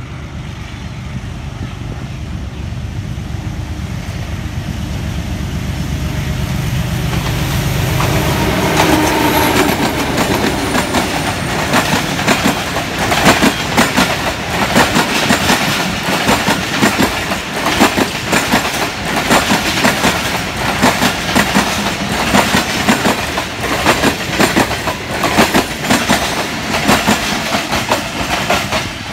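Express passenger train passing through a station at speed. The diesel locomotive's engine is heard approaching, growing louder for the first several seconds and passing about eight seconds in. The coaches then clatter steadily over the rail joints with a fast, rhythmic clickety-clack.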